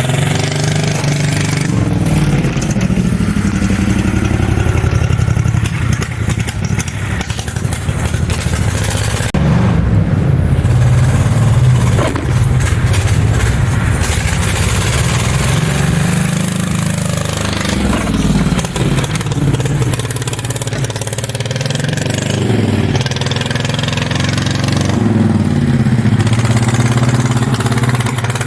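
Home-built mini bike's V-twin engine running hard while being ridden, its note rising and falling several times as the bike speeds up and slows down.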